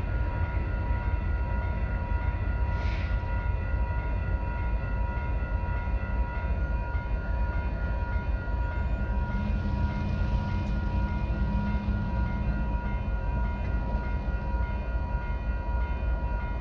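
Amtrak California Zephyr passenger train running with a steady deep rumble. Over it runs a thin, steady high whine that stops near the end, and there is a brief hiss about three seconds in.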